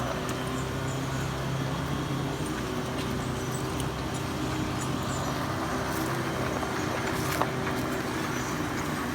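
Heavy vehicle's engine running steadily at one speed, with a single sharp click about seven seconds in.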